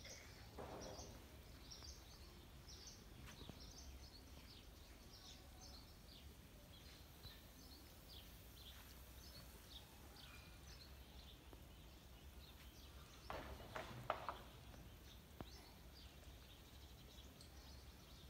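Faint outdoor ambience with many short, high chirps of small birds scattered throughout, over a steady low rumble. A few louder brief sounds come about thirteen to fourteen seconds in.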